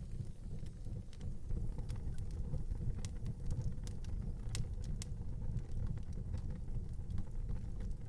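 Wood fire burning in an outdoor fireplace: a steady low rumble with scattered sharp crackles and pops.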